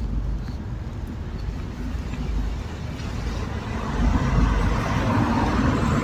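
Steady low rumble of road and wind noise on a moving ride, swelling into a louder hiss about four seconds in.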